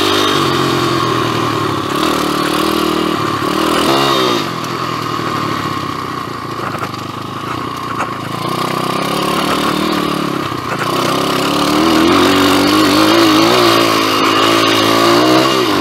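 2007 PitPro 140cc pit bike's single-cylinder four-stroke engine running as the bike is ridden along the trail, revs rising and falling with the throttle. The revs change about four seconds in, and the engine is louder and more uneven over the last few seconds.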